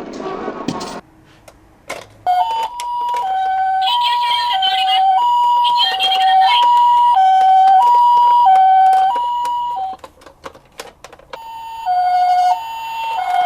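Toy ambulance's electronic siren sounding the Japanese two-tone "pee-po" pattern, a high tone and a lower tone alternating about every two-thirds of a second. It starts after a second or two of clatter and a few clicks, stops for about two seconds, then starts again near the end.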